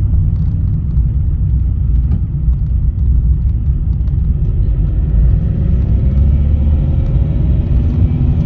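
Road and tyre rumble inside a moving Vauxhall Meriva B's cabin on a test drive, steady and low. From about halfway through, a faint engine note rises gently as the car picks up speed.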